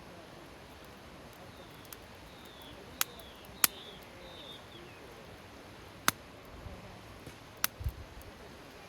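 Wood campfire crackling: about five sharp, separate pops over a soft steady hiss, with a dull low thump near the end. A small bird chirps a few short falling notes in the background during the first half.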